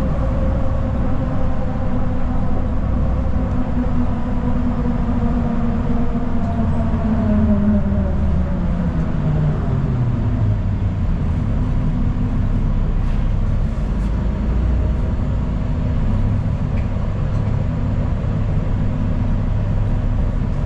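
Inside a city transit bus on the move: steady engine, drivetrain and road noise, with a drivetrain tone that falls in pitch from about seven to ten seconds in as the bus slows.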